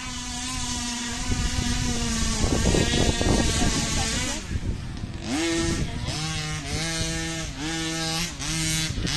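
Radio-controlled truck's motor running at a steady pitch, then a stretch of scrabbling noise, then revved up and down in a quick series of short throttle blips, about six of them in the last four seconds.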